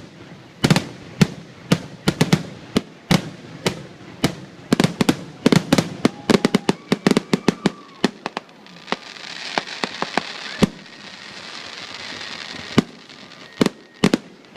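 Fireworks going off: an irregular, rapid string of sharp bangs, with a steady hiss for about four seconds past the middle broken by only a few bangs.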